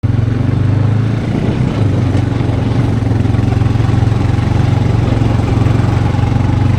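An engine running steadily at an even speed, with a low, constant pulsing note.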